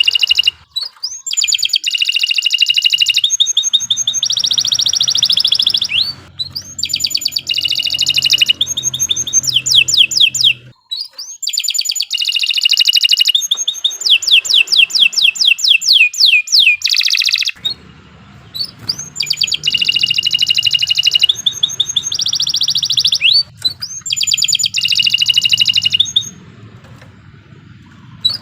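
Domestic canary singing a long, loud song of rapid trills and quick sweeping notes, phrase after phrase with short breaks, pausing for about two seconds near the end.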